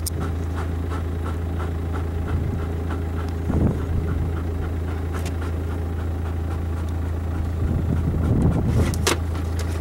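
A vehicle engine idling with a steady low drone, with a few faint knocks and rustles at about three and a half seconds and again about eight to nine seconds in.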